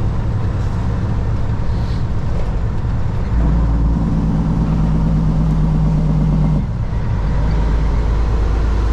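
Semi truck's diesel engine running under way, with road noise. About three and a half seconds in the engine note grows stronger and steadier, then drops back with a brief dip in loudness around six and a half seconds.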